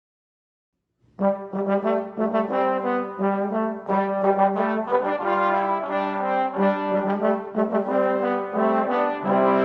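Music from a brass ensemble starts suddenly about a second in, with several instruments playing chords together.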